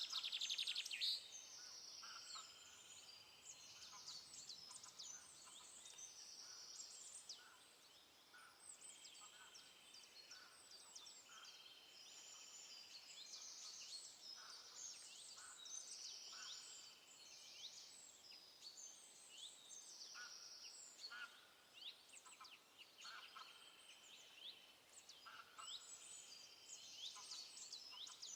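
Faint forest bird chorus: several songbirds singing at once, with many short high chirps, quick sweeps and trills overlapping, and a louder trill about a second in.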